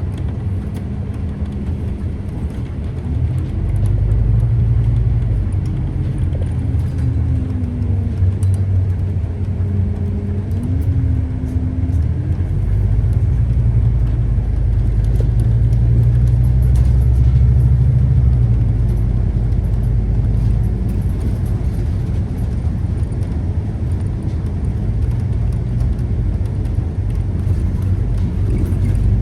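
Scania CK320UB Citywide city bus running on the road: a steady low engine rumble with a whine that glides up and down. It grows louder at about 4 seconds and again at about 13 seconds in.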